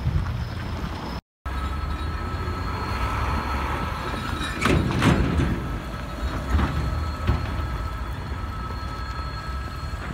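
Diesel locomotive-hauled train rumbling at a level crossing, with steady high-pitched tones over the rumble. The noise swells briefly about four and a half seconds in.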